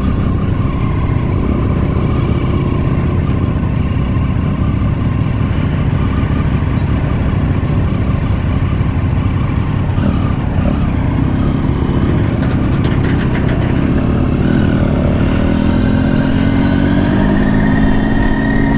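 Triumph Tiger 800 XCx's three-cylinder engine running steadily under way, its note rising over the last few seconds as the motorcycle accelerates.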